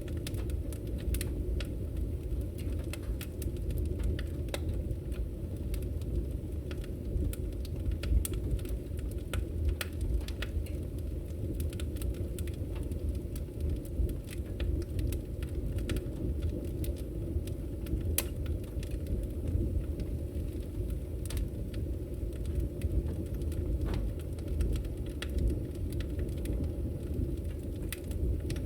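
Wood bonfire burning: a steady low rumble of flames with scattered sharp crackles and pops.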